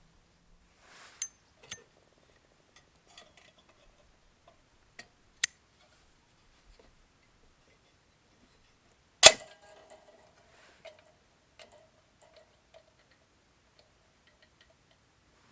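Scattered sharp clicks and knocks of objects being handled, then a loud metallic clink about nine seconds in that rings on briefly before fading.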